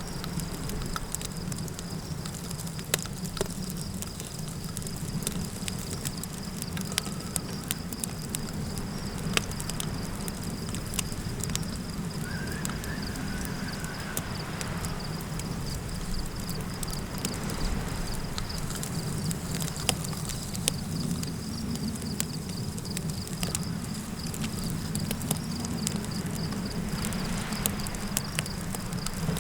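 Campfire crackling with sharp pops scattered throughout, layered over a steady low wind rumble and a continuous high cricket-like insect trill. A short warbling call is heard about twelve seconds in.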